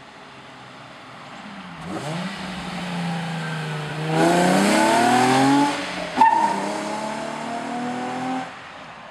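A 2007 Nissan 350Z's VQ35HR V6, fitted with ART test pipes and the stock exhaust, accelerating hard with its pitch rising. Just before the middle the note drops at a gear change, with a short sharp crack. The pitch climbs again in the next gear until the throttle is lifted near the end.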